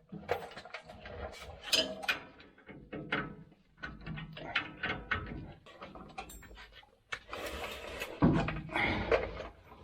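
Hand tools clicking and clanking on metal: a socket and breaker bar being fitted and worked on Loctited brake bolts to break them loose. There is a short rushing scrape about seven seconds in.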